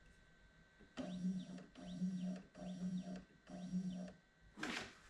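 Stepper motors of a budget desktop CNC router driving the machine's axes in four short moves about a second apart, each a buzzing motor whine whose pitch rises and falls as it speeds up and slows. A short loud rushing noise follows near the end.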